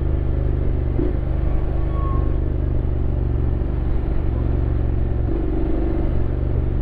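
Honda X-ADV 750's parallel-twin engine running steadily while riding, its note shifting slightly about a second in and again a little past five seconds.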